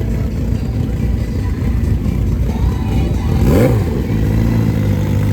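Racing engines at a drag strip: a steady low engine drone, and about three and a half seconds in one engine note rises and then drops sharply as a vehicle revs hard or passes, followed by a steady engine hum.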